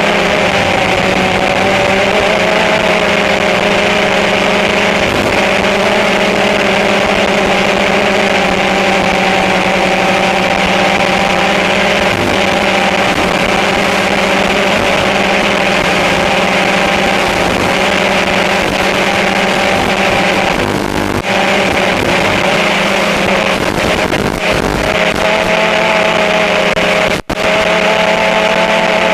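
Motors and propellers of a small remote-controlled aircraft running steadily close to the microphone, a loud hum of several steady tones that waver slightly in pitch, with a brief break near the end.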